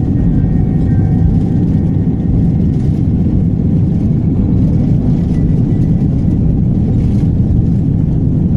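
Airliner cabin noise: a steady low rumble of the engines and rushing air, holding at an even level.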